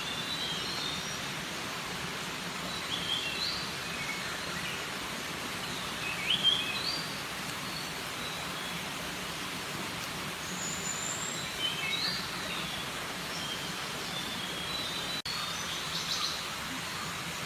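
Wild birds chirping in short high calls, several sliding upward in pitch, over a steady background hiss. The loudest call comes about six seconds in.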